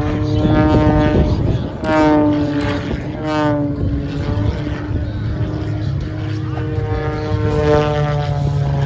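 Propeller airplane engine droning, its pitch holding steady with a few slight dips, over a low rumble.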